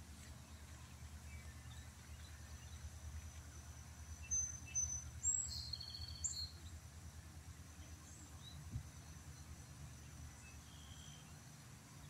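Outdoor pond-side ambience: a steady low rumble with a faint, steady high whine, and small birds chirping several times in quick succession around the middle.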